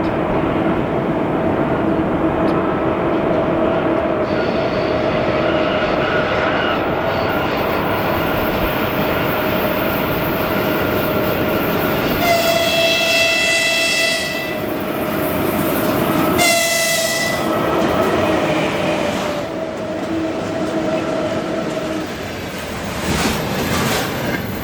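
Freight train hauled by a 3ES5K 'Ermak' electric locomotive running past, with steady rail and running noise. Its horn sounds twice about halfway through: a longer blast of nearly two seconds, then a short one.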